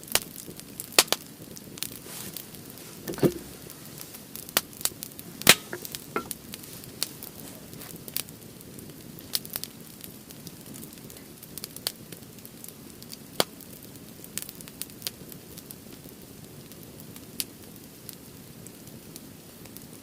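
Firewood burning in a Uniflame Fire Grill, crackling with irregular sharp pops, most frequent in the first six seconds, the loudest about five and a half seconds in.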